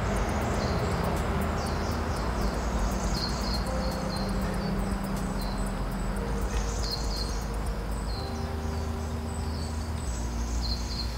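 Birds chirping in short, repeated, high calls that fall in pitch, over steady outdoor background noise with a low hum.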